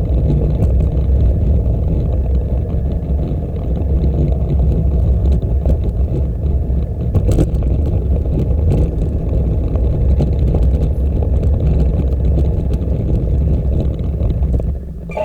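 Steady low rumble of wind and riding noise on the microphone of a camera carried on a moving bicycle, with a few light clicks. It drops off sharply at the very end.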